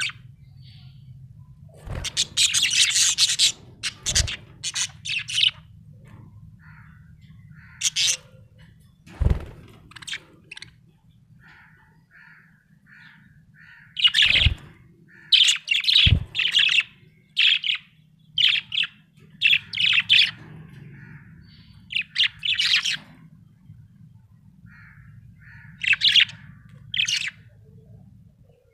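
Small parrot chirping in short, irregular calls, some run together into busy clusters with a few harsher squawks, over a steady low hum. A few soft knocks are heard now and then.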